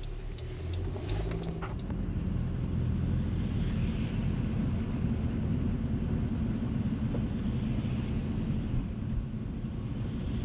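Steady low road rumble of a car driving, heard from inside the cabin, growing slightly louder about two seconds in, with a few faint clicks near the start.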